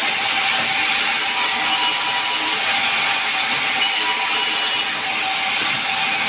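Sawmill saw cutting through a pine log: a steady, loud, hissing saw noise with no break.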